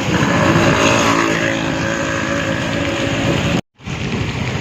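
A motor vehicle engine running steadily at an even pitch. About three and a half seconds in, the sound cuts off abruptly and an even noise follows without the engine.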